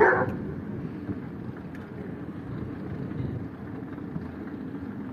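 Steady low outdoor rumble, after a brief louder sound right at the start.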